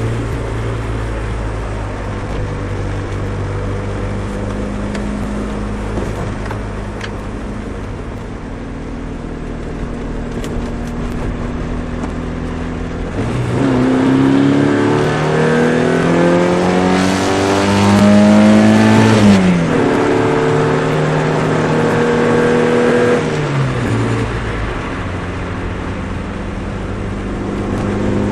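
Nissan Micra 1.3's four-cylinder engine droning through a custom exhaust at a steady speed. About halfway through, the revs climb for around six seconds, drop sharply, hold steady for a few seconds, then fall back to the earlier steady drone.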